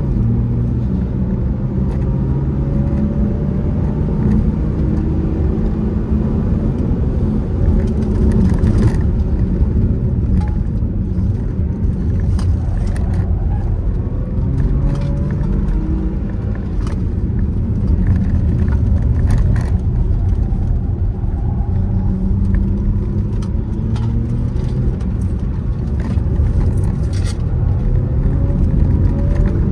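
Car engine being driven hard, its pitch climbing and dropping again several times as it accelerates, lifts off and changes gear, over a steady heavy rumble of road and wind noise. A few brief sharp clicks or knocks are heard along the way.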